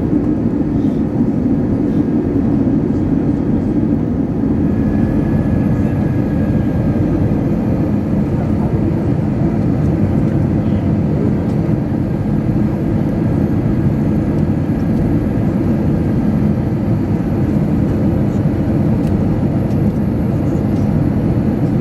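Airbus A320 cabin noise in flight on the descent: a steady, even rush of airflow and engine noise that is deep and low-pitched.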